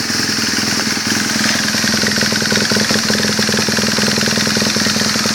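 BMW R1200 GS boxer-twin engine idling steadily through an Akrapovic exhaust, still cold shortly after a cold start, with an even firing rhythm.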